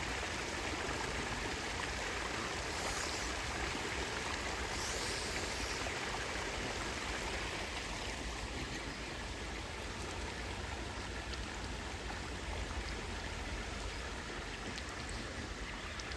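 Small brook's water running steadily.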